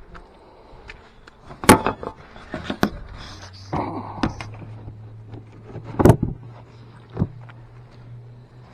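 Several sharp knocks or clunks, the loudest about two seconds and six seconds in, over a steady low hum that sets in about a second and a half in.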